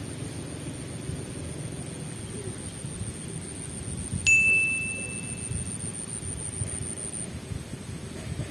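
A single bright bell-like ding about four seconds in, ringing out for about a second and a half, over a low wind rumble on the microphone.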